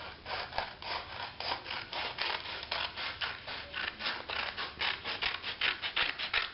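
Scissors cutting through a sheet of A4 paper in a quick run of snips, several a second, as a rectangle is cut off the sheet.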